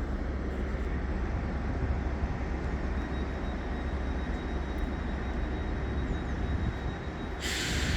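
Train running at a station platform: a steady low rumble, with a faint thin high tone from about three seconds in and a burst of hiss near the end. No horn is sounded.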